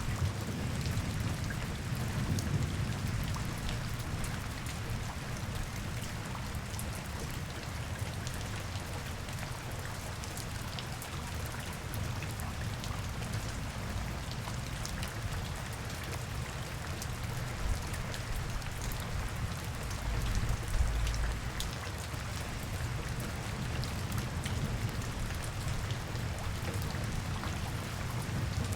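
Steady rain falling, with many separate drops ticking on nearby surfaces over a constant low rumble. A deeper rumble swells briefly about twenty seconds in.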